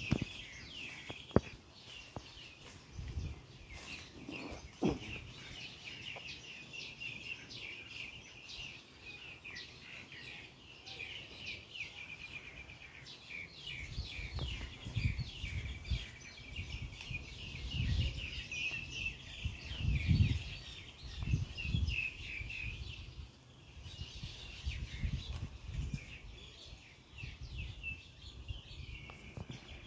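Birds chirping busily, a continuous run of quick high notes, with low thumps and rustling in the middle stretch.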